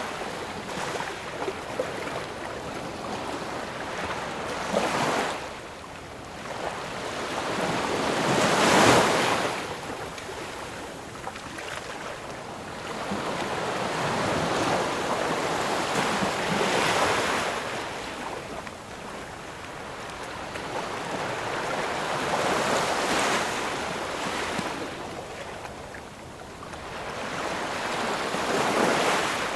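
Ocean surf: waves breaking and washing in, swelling and fading every few seconds, with the loudest break about nine seconds in.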